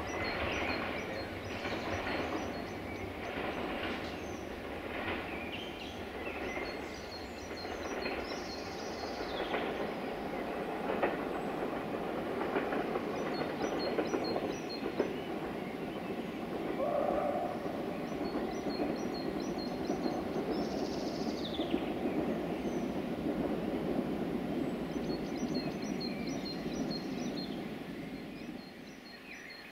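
Train running along the line, a steady rumble with wheels clicking over rail joints, fading away near the end.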